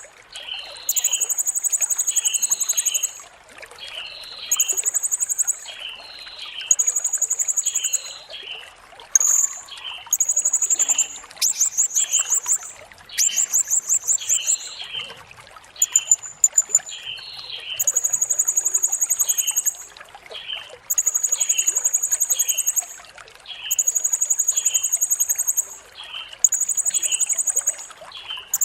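Blue-crowned hanging parrot (serindit) singing: very high, rapid trilled phrases of one to two seconds, repeated with short gaps, over a steady run of short, lower chirps a little more than once a second. Around the middle the trills break into quicker, stuttering notes.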